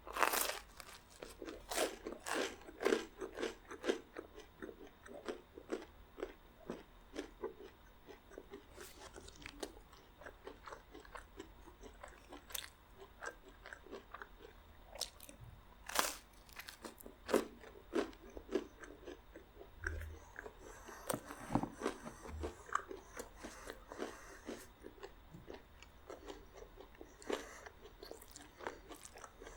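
Biting and chewing crunchy garlic bread: a loud crunching bite at the start and another about halfway through, with repeated crunches of chewing in between.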